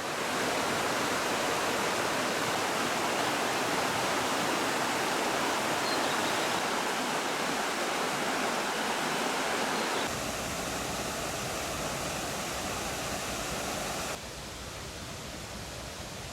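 Steady rush of flowing water, a waterfall or fast stream. Its character changes abruptly about ten seconds in, and it drops in level a couple of seconds before the end.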